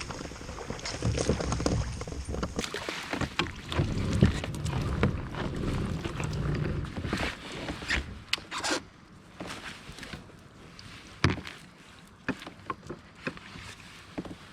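Scattered knocks and clicks of gear on a fishing kayak, over a low rumble that fades out after about seven seconds.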